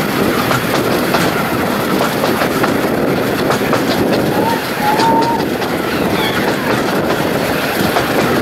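Narrow-gauge train running along the track: a steady rumble with wheels clicking over the rail joints.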